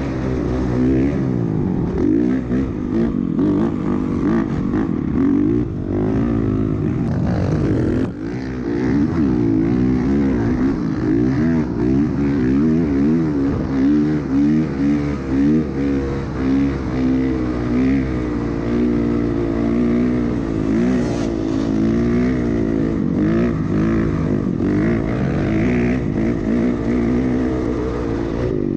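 Off-road vehicle engine running under way, its pitch rising and falling over and over as the throttle changes, with a brief drop in loudness about eight seconds in.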